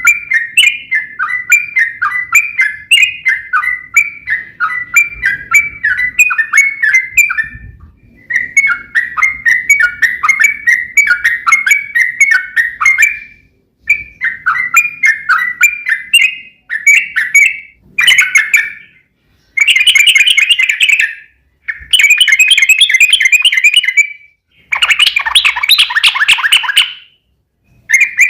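Yellow-vented bulbul song, loud. For the first half it sings long runs of bubbly, warbling notes, about three a second, with brief breaks. In the second half it switches to fast rolling trills in blocks of about two seconds, separated by short pauses.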